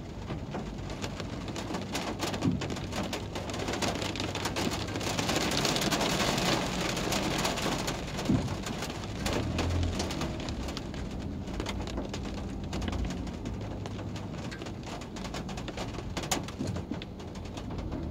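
Rain pattering on a car's roof and windscreen, heard from inside the car, with many single drop hits. The hiss swells for a couple of seconds about five seconds in, over a low steady hum.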